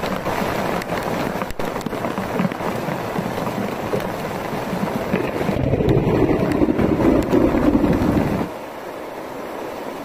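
Heavy rain and gusting wind, the rain pelting a camping tarp and runoff pouring and splashing off its edge, with wind buffeting the microphone. The noise grows louder, then drops off sharply about eight and a half seconds in.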